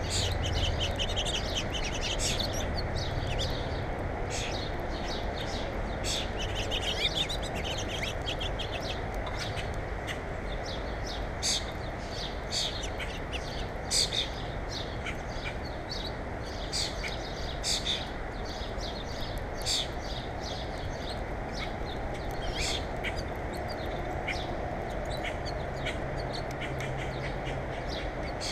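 Small birds chirping over and over in short, sharp calls, with a few quick runs of chirps, over a steady background noise.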